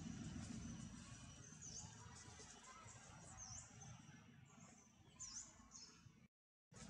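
Faint, high, short bird chirp repeated three times, one about every second and a half to two seconds, over a low steady background rumble. The sound drops out briefly near the end.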